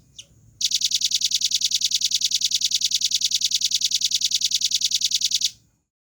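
Velvet-fronted nuthatch singing: a short high note, then a fast, even trill of about ten high notes a second that lasts about five seconds and stops abruptly.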